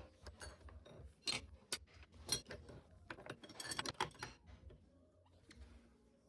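Light workshop handling noises: irregular clicks and knocks of tools and wood, busiest about four seconds in and dying away near the end.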